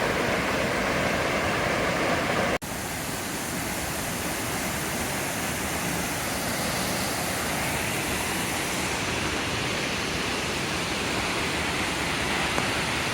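Steady rush of a waterfall's falling water, broken once by a momentary dropout about two and a half seconds in.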